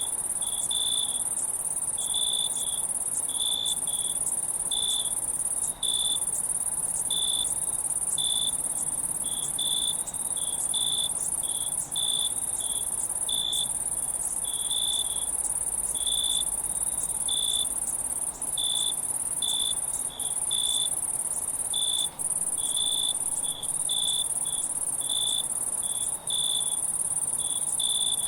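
Crickets chirping: a steady high-pitched trill with lower, separate chirps repeating irregularly about one and a half times a second.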